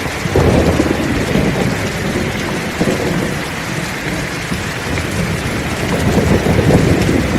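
Heavy rain falling steadily, with rolling thunder rumbling low beneath it: the rumble swells about half a second in and again near the end.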